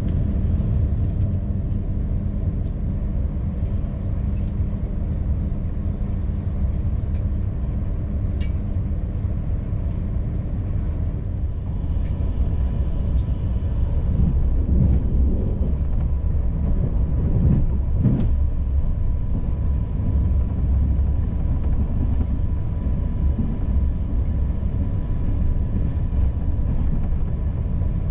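Steady running noise inside a CP Intercidades Corail passenger coach on the move: a continuous low rumble of wheels on rail, with a few sharp clicks. The rumble grows louder for a few seconds about halfway through, and a faint steady whine is heard in the second half.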